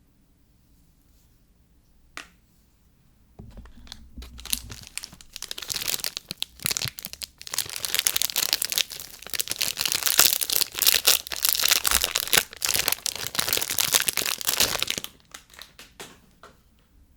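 Soap packaging being torn open and unwrapped by hand. A dense run of crinkling and tearing starts about three seconds in and lasts about eleven seconds, trailing off into a few soft clicks.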